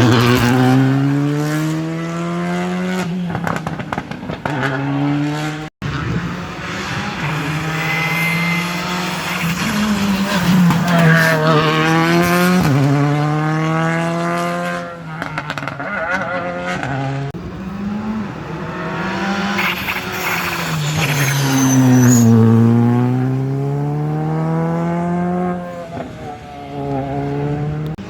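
Rally cars on a wet special stage driven hard, the engine pitch climbing through each gear and dropping at every shift and lift-off as they approach and pass, with tyre hiss from the wet road. The sound breaks off abruptly about six seconds in, then the next stretch of engine runs on.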